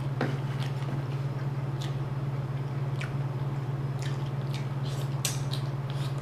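Close-up eating sounds: scattered wet mouth clicks and smacks from chewing, over a steady low hum.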